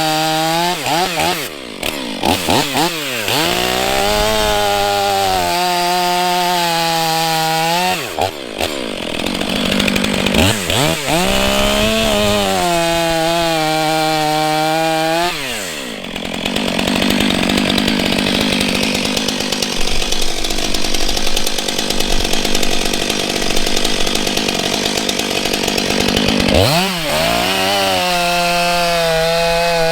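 Stihl MS 500i fuel-injected two-stroke chainsaw running at full throttle, bucking a log into firewood rounds. Its high, steady engine pitch dips and recovers several times as it goes into and out of cuts, with a longer cut through the wood about halfway through.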